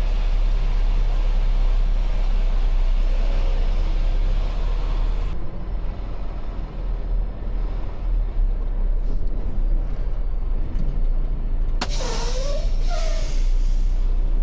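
Semi truck's diesel engine running steadily with a deep rumble. A steady hiss over it stops abruptly about five seconds in, and a loud burst of hissing lasting about a second and a half comes near the end.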